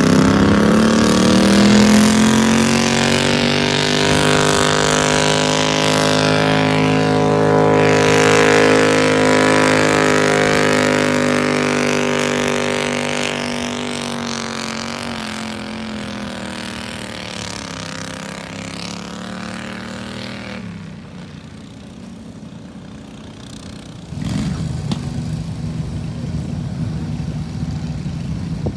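Garden tractor engine running hard under load during a pull. It revs up over the first couple of seconds, holds a steady pitch, then fades over the next several seconds and cuts out about twenty seconds in. A lower, rougher engine sound starts a few seconds later.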